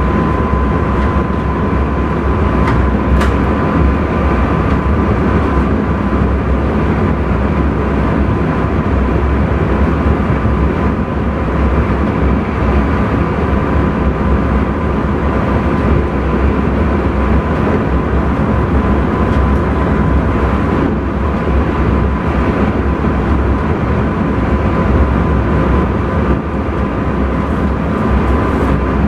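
Intercity train running at speed, heard from inside the driver's cab: a steady rumble of wheels on rail with a constant high whine, and a single click about three seconds in.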